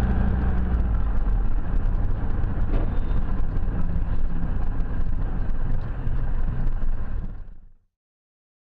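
A car driving: a steady low rumble of engine and road noise that fades out to silence about three-quarters of the way through.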